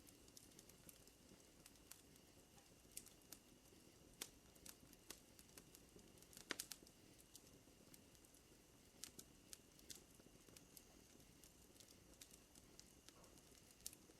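Wood fire crackling faintly with scattered sharp pops and a quick cluster of louder pops about halfway through. Over it runs a steady high-pitched drone of night insects.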